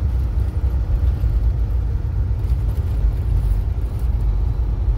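Semi truck's diesel engine running steady and low-pitched under light throttle, heard from inside the cab.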